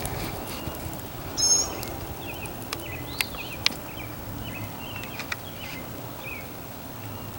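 Birds chirping outdoors, with one short, loud, high call about a second and a half in and scattered quieter chirps after it. A few sharp clicks fall a couple of seconds in.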